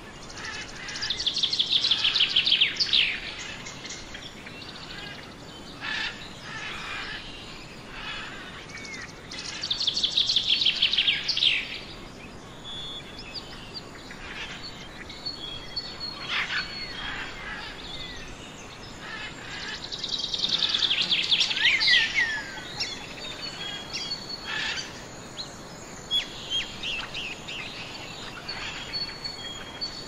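Forest birdsong: a rapid, high trilled phrase that ends in a few falling notes, repeated three times about ten seconds apart, with scattered chirps and thin high whistles in between.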